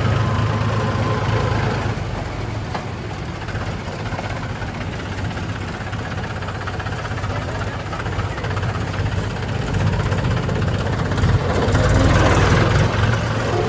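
Diesel engine of heavy farm or construction machinery running steadily with a low hum, growing louder toward the end.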